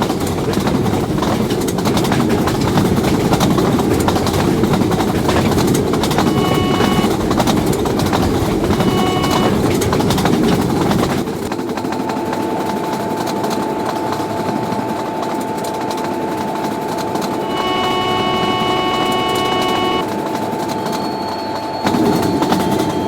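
Passenger train passing at speed, its wheels rumbling and clattering over the rails, with two short pitched tones about 6 and 9 seconds in. About halfway it cuts abruptly to a quieter rumble carrying a steady tone and a longer stacked tone.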